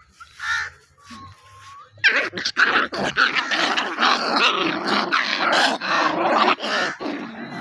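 Two puppies play-fighting, growling and snarling hard and continuously from about two seconds in, with quick snaps and catches of breath. This rough growling is part of play, not real aggression.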